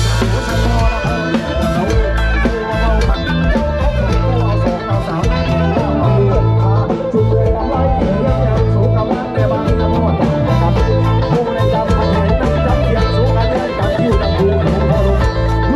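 Live band music at full volume: a plucked-string lead over heavy bass and a steady drum beat, with no clear singing.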